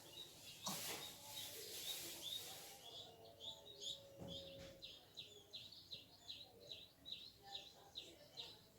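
A bird chirping in a steady series of short, high chirps, about three a second, each dipping in pitch. A hissing noise runs through the first few seconds.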